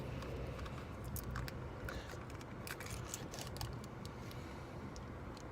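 Plastic dipping-sauce cup being opened by hand: scattered small clicks and crackles of the lid and packaging over a low steady hum.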